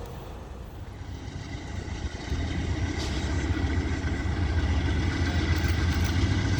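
Diesel locomotive engine rumbling low and steady, growing louder from about two seconds in as the train approaches.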